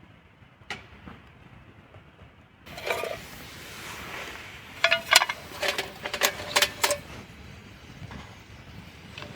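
Metal camp cookware or utensils being handled: a quick run of sharp clinks and rattles with short ringing tones, lasting about two seconds in the middle.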